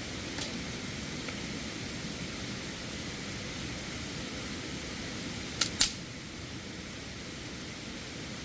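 A steady rushing hiss, with two sharp clicks in quick succession a little past the middle.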